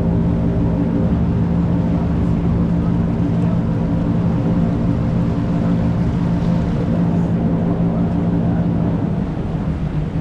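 A boat engine running at a steady pitch, a low hum with a rumble under it, easing off near the end.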